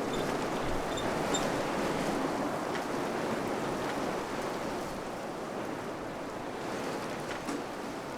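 Wind blowing steadily, a dense, even rushing noise with no lull. A couple of faint, short high peeps sound about a second in.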